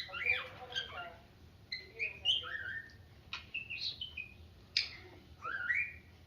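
Cockatiel whistling and squawking in a string of short notes that slide up and down, with a couple of sharp clicks in between.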